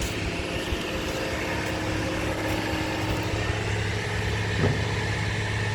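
Construction machinery's engine idling, a steady low hum that does not change.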